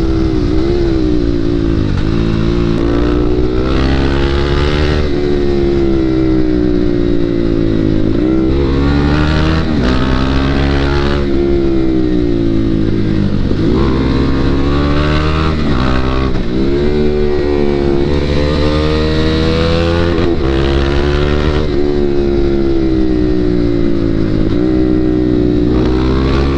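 KTM 390 motorcycle's single-cylinder engine under hard riding, its revs climbing and dropping again and again through gear changes and bends.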